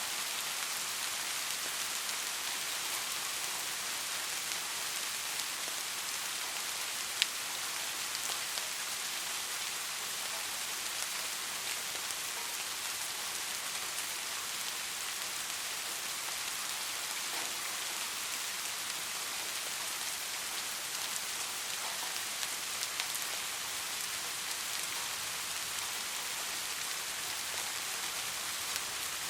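Steady rain falling on a street: an even hiss with scattered drop ticks, and one sharper tick about seven seconds in.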